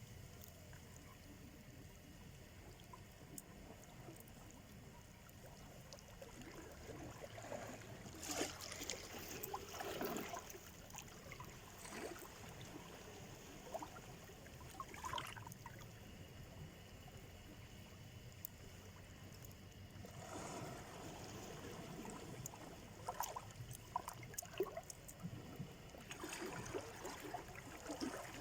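Small sea waves breaking and washing up the shore, with trickling and gurgling as the water runs back. A quiet stretch at the start, then a series of separate washes, several of them close together near the end.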